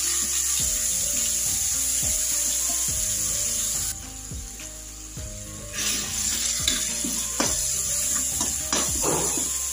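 Chili, garlic and coriander paste sizzling in hot mustard oil in an aluminium kadhai, with a steel spoon scraping and clicking against the pan as it is stirred. The sizzle drops away for about two seconds midway, then picks up again.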